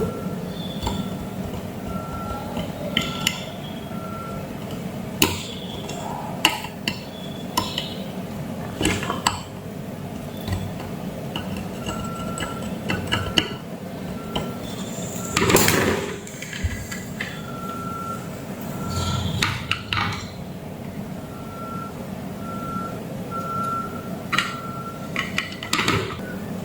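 Multimeter continuity beeps, short and mid-pitched, sounding again and again at uneven intervals as test probes touch points on the circuit board, mixed with sharp clicks and clinks of probes and tools on the bench. A louder rustle and clatter comes about fifteen seconds in.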